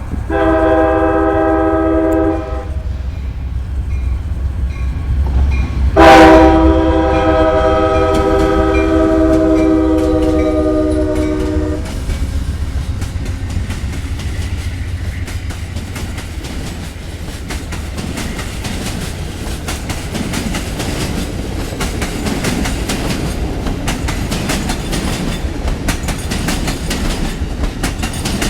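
Amtrak passenger train's locomotive horn sounding a blast of about two seconds, then a louder long blast of about six seconds, over the rumble of the approaching train. After the horn, the train passes with a steady rumble and wheels clicking over the rail joints.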